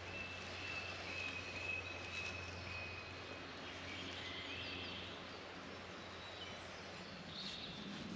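Quiet woodland ambience with faint birdsong: a thin, high whistled note held in short pieces over the first few seconds, then a few short chirps.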